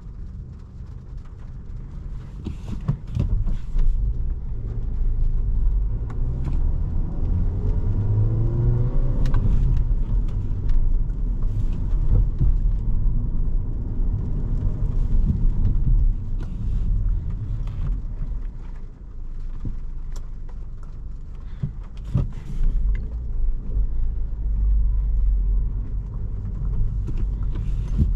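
Inside the cabin of a 2017 Volkswagen Jetta SE with a 1.4-litre turbo four and a manual gearbox, engine and road noise make a steady low rumble while driving. About eight seconds in, the engine note rises as the car accelerates. Occasional short clicks and knocks sound from the cabin.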